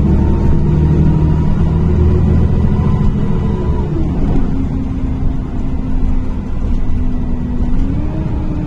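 NefAZ-5299 city bus's diesel engine and drivetrain running under way, heard from inside the passenger cabin. The engine note drops about four seconds in and rises again near the end.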